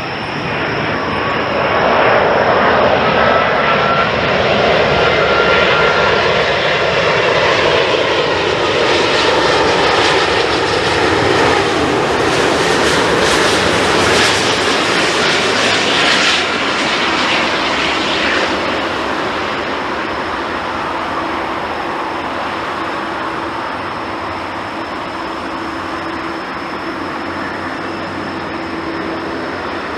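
Jet airliner passing close, its engines making a loud roar. The roar builds over the first couple of seconds, the engine whine falls in pitch as the plane goes by, and the sound eases off in the last third.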